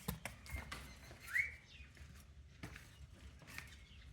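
A pet parrot gives one short whistle that rises and then holds, about a second and a half in, among scattered light clicks and taps.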